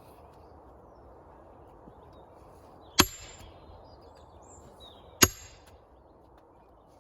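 Sledgehammer striking a steel splitting wedge driven into a big green log, two hard metallic blows about two seconds apart, each ringing briefly.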